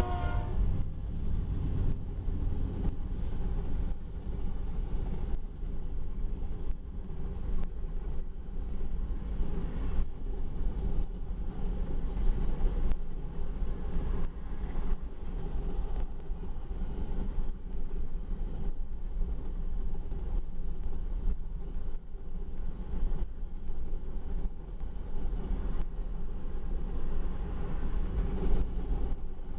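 Freight train's grain hopper cars rolling past on the main track: a steady low rumble of steel wheels on rail with frequent short clicks of wheels over rail joints. A train horn's last note fades out right at the start.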